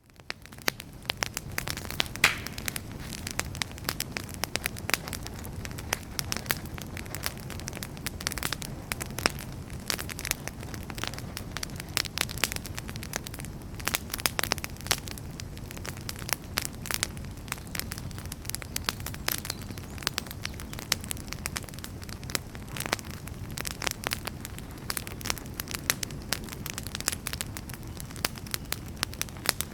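Wood fire in a fireplace crackling, with constant irregular pops and snaps of burning logs over the low, steady rush of the flames. It fades in over the first second.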